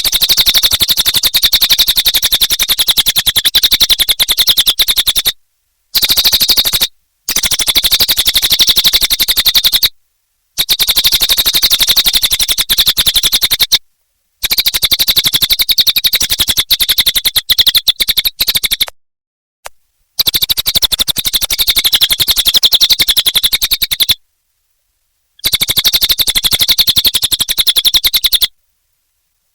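Cililin songbird singing a rapid, buzzy chattering trill in bursts of a few seconds each, broken by short silent pauses.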